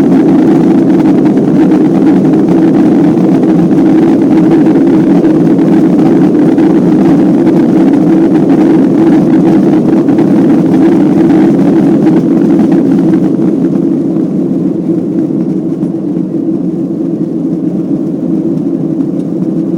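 Boeing 737 jet engines and airflow heard from inside the cabin during takeoff and climb: a loud, steady roar. About two-thirds of the way through it drops in level and loses some of its higher hiss.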